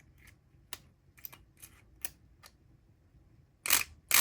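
A few light clicks of metal in a lock, then near the end a loud, brief burst of a SouthOrd E500XT electric pick gun, its vibrating pick rattling against the lock's pins.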